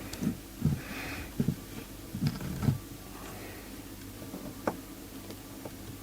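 Light taps and clicks of small tools and parts being handled on a workbench during soldering work, several in the first three seconds and one more near the five-second mark, over a steady low electrical hum. A soft breath or sniff comes about a second in.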